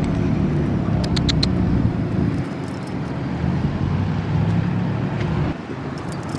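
A motor vehicle's engine running close by, a steady low rumble that drops away about five and a half seconds in. A brief light metallic jingle comes about a second in.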